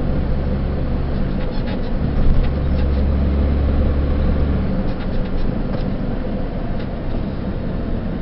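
Delivery truck's engine and road noise heard inside the cab: a steady low drone with scattered light ticks and rattles.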